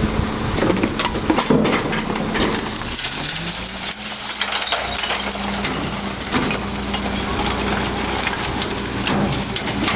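Garbage truck engine running, its pitch dipping and then climbing back up about three seconds in, with repeated irregular knocks and clatter over it.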